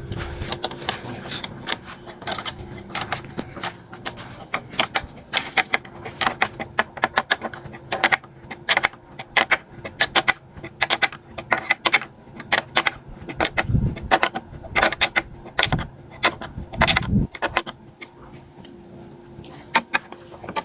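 Irregular run of sharp metallic clicks and clinks from hand tools working the screws that fix the bamboo posts to their anchors, with two low thumps about 14 and 17 seconds in.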